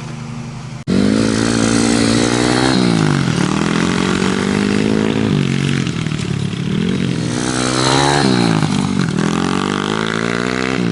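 Kawasaki KLX110L pit bike's small single-cylinder four-stroke engine running, then revving, its pitch rising and dropping several times as the bike accelerates and changes gear. The sound jumps abruptly louder about a second in.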